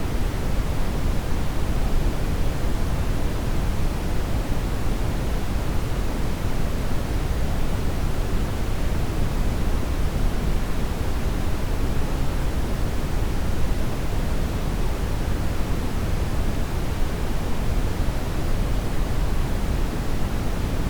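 Brown noise: a steady, unchanging hiss, strongest in the bass and weakening toward the treble.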